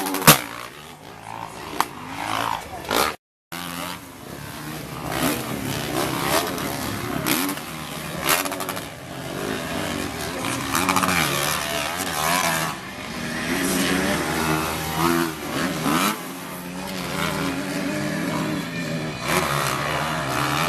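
Motocross motorcycle engines racing and revving, their pitch rising and falling as the bikes go by. A sharp click comes right at the start, and the sound drops out completely for a moment about three seconds in.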